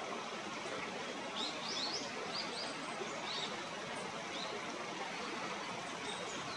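Small songbirds calling: several short, high, rising chirps in a loose cluster, starting about a second and a half in and ending around four and a half seconds, over a steady background rush.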